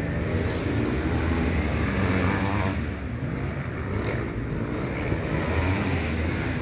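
Racing motorcycle engines running, with a steady, dense engine sound that dips slightly about three seconds in.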